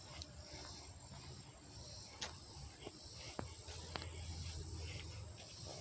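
A hiker's footsteps on a trail, with a few sharp clicks about two, three and a half and four seconds in, over a faint high-pitched insect chorus that pulses on and off.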